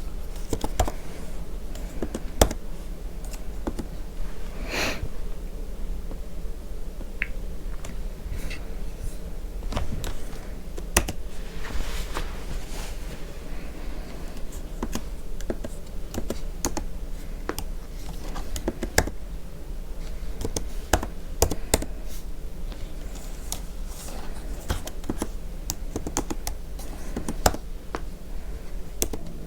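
Typing on a computer keyboard: quick, irregular key clicks, with a steady low hum beneath.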